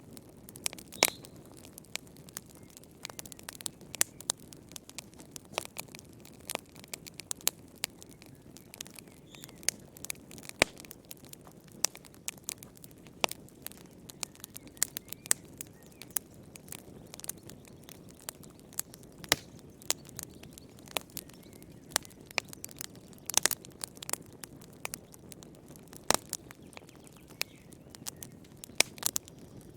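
Wood fire in a fireplace crackling, with irregular sharp pops and snaps, several a second, over a soft steady rush of the flames.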